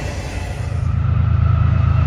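A freight train rolling past as its last cars go by, then a steady low rumble of approaching diesel locomotives, GE Evolution-series units, that grows slightly louder.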